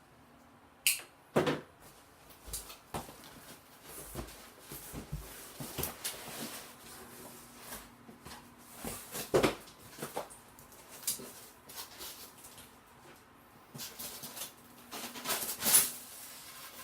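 A cardboard shipping box being opened and its packing peanuts and packaging handled: irregular rustling, scraping and knocks. The loudest knocks come about a second in, around the middle and near the end.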